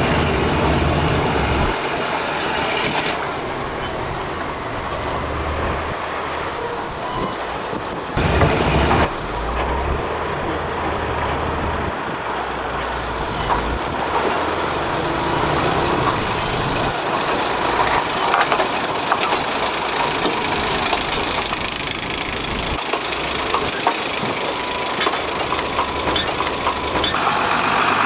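Narrow gauge industrial train running: a steady rumble with rattling and clicking from the wagons and track, the low engine drone rising and falling, and a louder clatter about eight seconds in.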